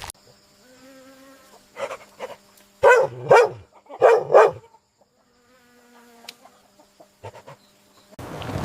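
An animal calling: four short, loud calls in two pairs, with a faint steady pitched hum before and after.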